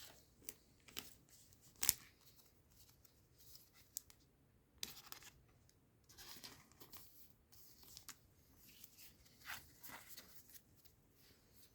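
Faint rustling and soft taps of trading cards and foil booster-pack wrappers being handled, with one sharper tap about two seconds in.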